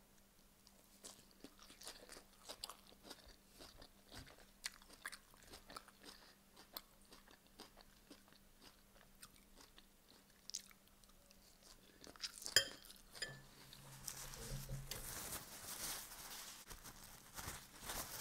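Close chewing and crunching of a mouthful of crisp mixed salad leaves: many small, irregular crunches. Near the end comes a longer, louder rustle as a paper towel is wiped across the mouth.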